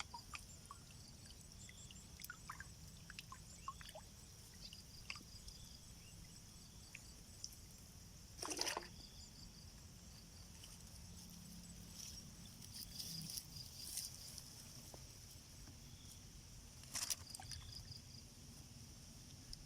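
Water trickling and sloshing, with two brief louder splashes about eight and seventeen seconds in, over a steady high chirring.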